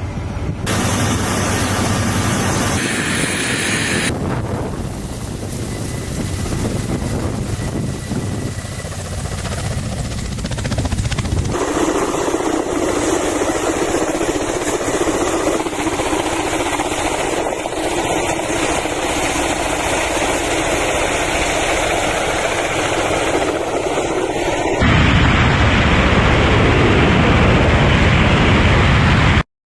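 Ka-52 attack helicopter engines and rotors running loudly through a series of spliced clips, the sound changing abruptly at each cut. It stops dead near the end.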